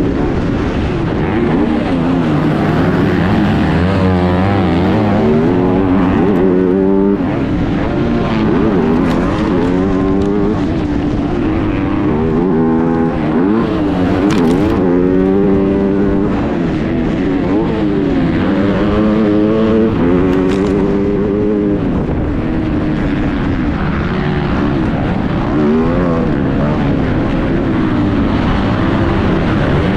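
MX2 motocross bike engine heard on board, revving up hard and dropping back again and again as the rider accelerates, shifts and shuts off around the track, with wind rush on the microphone.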